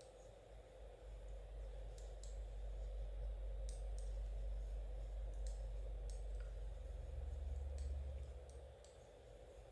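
Knitting needles clicking lightly, about a dozen small clicks at uneven intervals, over a steady low hum.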